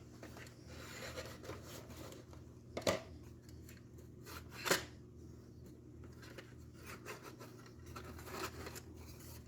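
Hands handling small plastic model-train pieces and their packaging: light rustling and scraping, with two sharp clicks about three and five seconds in.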